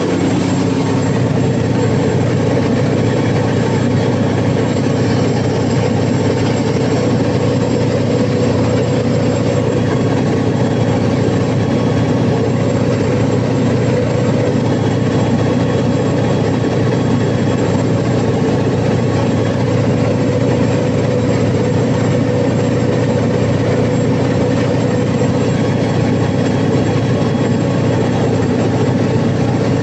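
Cummins KTA50 V16 diesel generator set running steadily at constant speed: a loud, even drone with no change in pitch.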